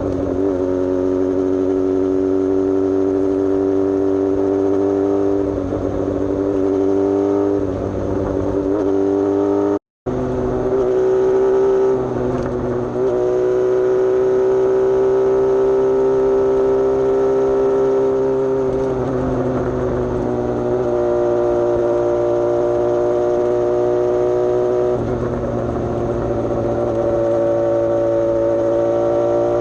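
Suzuki GSX-S750's inline-four engine with a Coffman's aftermarket exhaust, running steadily on the road with the pitch shifting up and down several times as the throttle and revs change. The sound drops out completely for a moment about ten seconds in.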